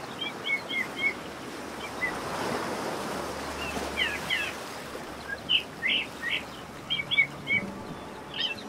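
Outdoor ambience: small birds chirping in short clusters of quick calls over a steady rushing background noise. A low sustained tone comes in near the end.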